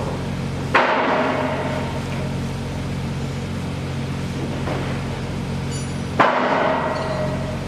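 Two loud metallic clangs, about five and a half seconds apart, each ringing on for a second or so, over a steady engine drone, typical of construction work on a bridge.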